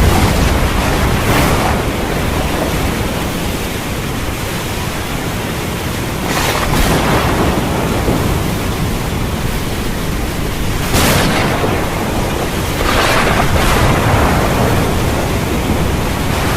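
Heavy rain falling: a loud, steady hiss that swells briefly several times.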